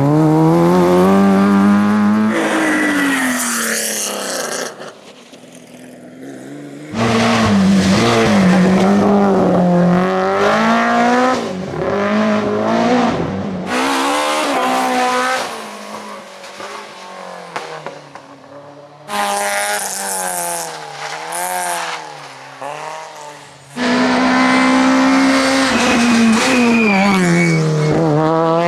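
Rally cars at full throttle on a special stage, engines revving up and dropping back repeatedly through gear changes and lifts. It is several cars one after another, each cutting off abruptly into the next.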